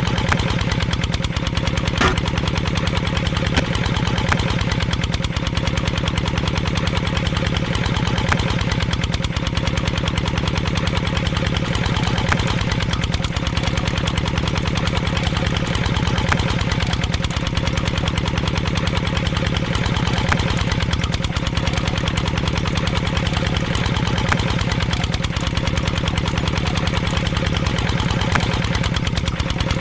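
Small motor of a miniature model tractor running steadily, with a fast, even chugging.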